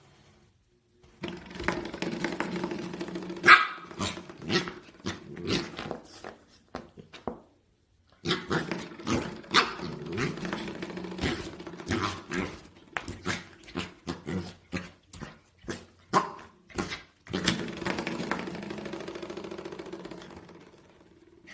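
Spring doorstop being flicked again and again by a puppy. Each sharp strike sets off a buzzing, wobbling boing, and the last one fades out slowly.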